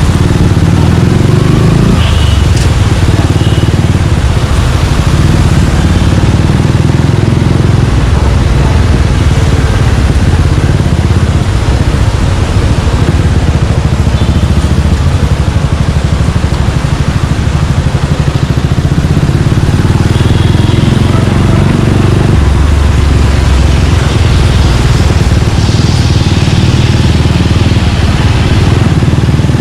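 Suzuki Gixxer 155's single-cylinder engine running steadily while riding, its note shifting a couple of times as the throttle changes.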